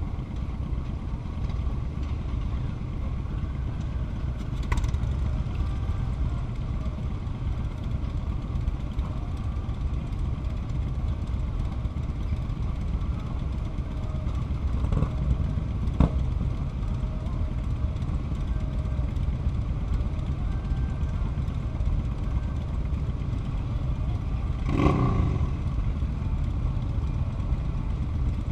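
Motorcycle engine and wind rumble on a helmet-mounted camera while riding, steady throughout. A few short clicks and clatters stand out, at about 5, 16 and 25 seconds in.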